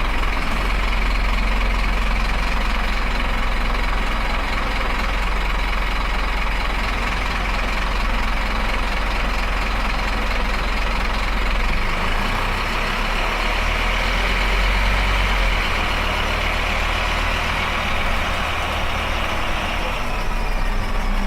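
Scania single-deck bus's diesel engine running steadily with a strong deep rumble, which changes about twelve seconds in and eases a few seconds later.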